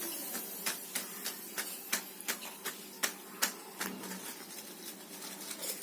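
Potato chips being lifted out of hot frying oil, with a faint sizzle and a run of sharp clicks about three a second for the first three and a half seconds. The oil's bubbling has died down, the sign that the chips are fried.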